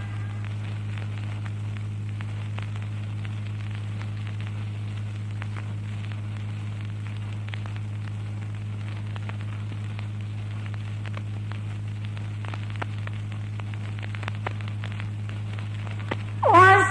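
Steady low electrical hum of a recording's background noise, with faint scattered crackles and clicks, during a silence between verses of a Quran recitation. A reciter's voice begins just before the end.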